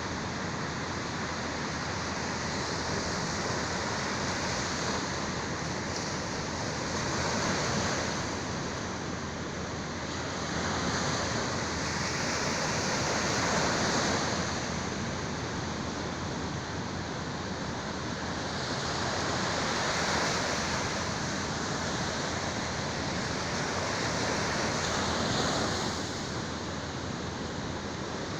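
Sea waves breaking and washing on the shore, a continuous surf noise that swells and eases every few seconds.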